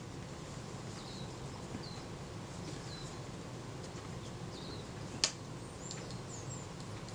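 Low steady room hum with a few faint, short, high bird chirps in the background, and a single sharp click a little after five seconds in.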